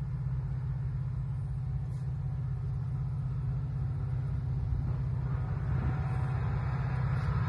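Florida East Coast Railway freight train approaching from a distance: a low, steady diesel rumble that grows slowly louder.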